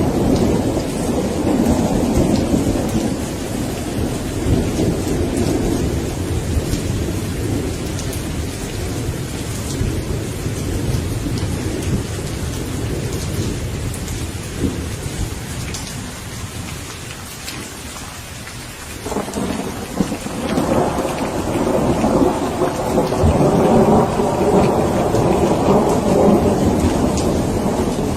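Steady rain falling in a thunderstorm with rolling thunder. The rumble dies down through the middle, then a new peal breaks suddenly about two-thirds of the way in and rumbles on to the end.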